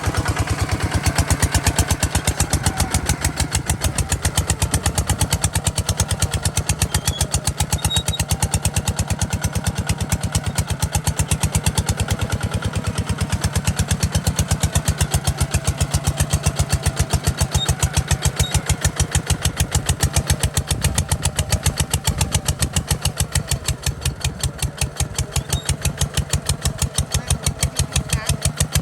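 Kubota RT 140 DI single-cylinder diesel engine running steadily, with a fast, even knocking beat.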